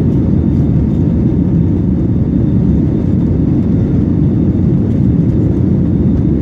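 Airplane during takeoff, a loud steady low rumble of engine and air noise.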